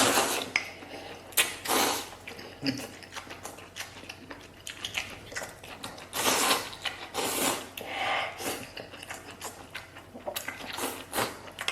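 Close-up eating sounds of a mouthful of spicy maocai: a series of short, noisy slurps and mouth sounds with pauses between them.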